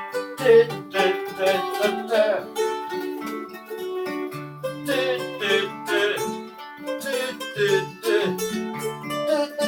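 Instrumental blues passage in G on plucked acoustic strings: picked notes and short strums over a walking bass line.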